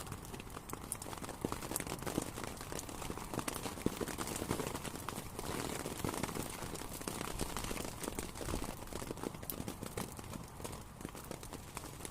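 Steady rain, with many drops striking a surface close by in a dense, irregular crackle of sharp hits over a continuous hiss.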